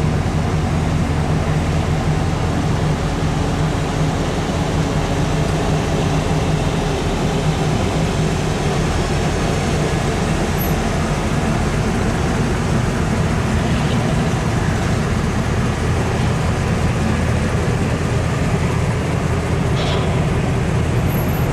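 Hot rod engine idling steadily close by, a deep, even rumble that does not rev.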